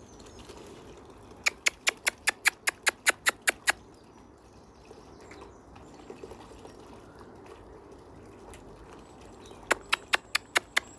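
A bird giving rapid series of sharp ticking calls, about six a second, in two bouts: one about a second and a half in lasting a couple of seconds, another starting near the end.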